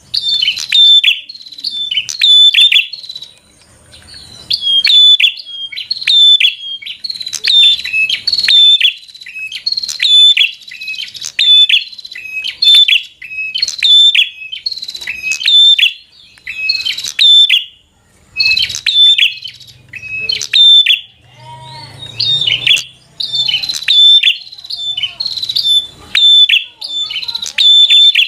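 A prenjak (prinia) singing loudly and continuously in its aggressive 'fighter' mode: rapid bursts of sharp, high, chirping notes repeated over and over with short pauses between phrases. About three quarters of the way through, a lower, softer wavering sound and a faint rumble briefly join in.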